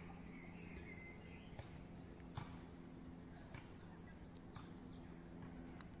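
Quiet woodland ambience: a few faint, high bird chirps in quick succession in the second half, over a steady low hum, with a few soft clicks.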